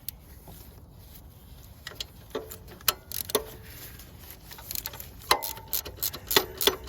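Hand ratchet wrench clicking as an alternator mounting bolt is loosened, with metal-on-metal knocks. The clicks are scattered at first and come faster near the end, some ringing briefly.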